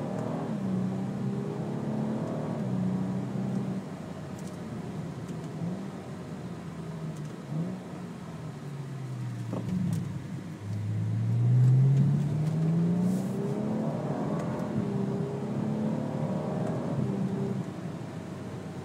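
BMW 135i's N55 turbocharged inline-six through an Agency Power downpipe-back exhaust with a resonated midpipe, accelerating through the gears. The engine note rises again and again and drops abruptly at each fast dual-clutch upshift, with the loudest, longest pull about halfway through.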